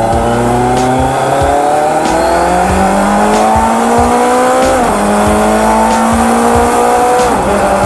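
Kawasaki Z900's inline-four engine accelerating hard through the gears: its pitch climbs steadily, then drops sharply at an upshift about five seconds in and again near the end before climbing once more.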